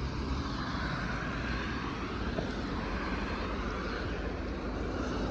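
Steady rush of highway traffic on a snow-covered parkway, tyres running on wet, snowy road.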